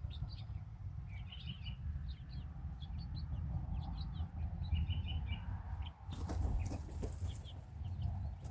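Young chickens peeping, with many short high cheeps throughout, over a low steady rumble. A brief burst of rustling noise comes about six seconds in.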